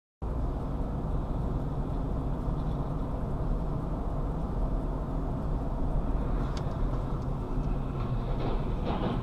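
Steady low rumble of a car driving, engine and road noise picked up by a dashcam, cutting in suddenly a moment in, with a few faint clicks later.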